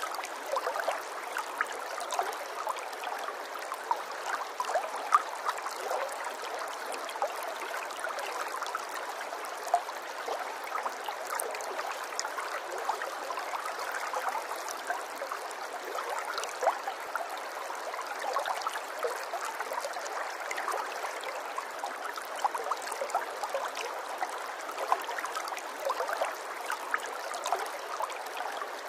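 Running water trickling and babbling steadily, a continuous wash full of small plops and splashes.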